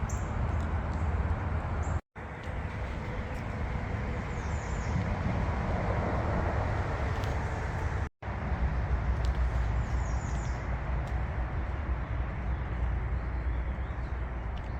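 Steady outdoor background rumble with a few faint, short high chirps. The sound cuts out sharply twice, about two and eight seconds in.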